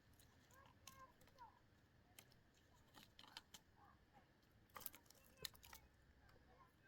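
Near silence, broken by faint scattered clicks and small knocks, a few a little louder around the middle, with some faint short chirps.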